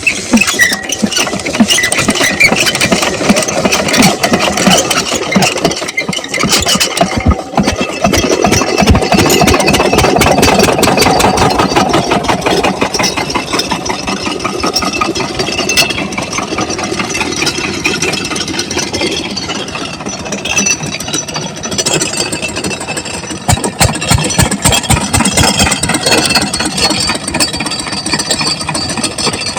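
Stationary diesel engine of an irrigation water pump set running steadily with a rapid, even firing beat.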